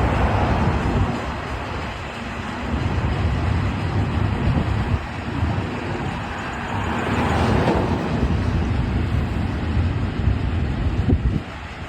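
Union Pacific rock train passing close by: a steady low rumble from its C44ACM diesel locomotives and rolling wheels, with a brief swell a little past halfway.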